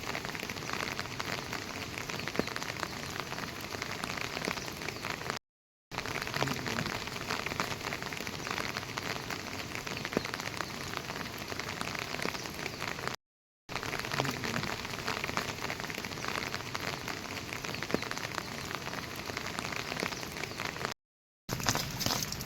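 Steady rain falling, a dense even patter of drops. It cuts out completely for about half a second three times.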